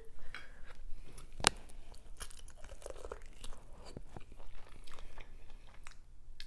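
A person biting and chewing corn on the cob, a run of irregular crunching clicks, with one sharper, louder click about one and a half seconds in.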